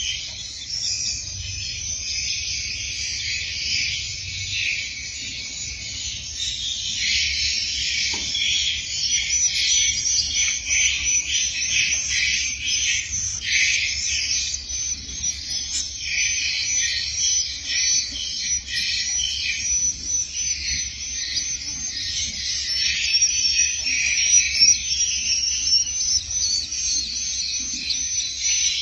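Dense, continuous chorus of high, overlapping twittering chirps from many swiftlets.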